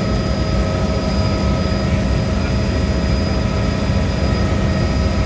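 Helicopter in flight, heard from inside the cabin: a steady engine and rotor drone with a thin, constant whine above it.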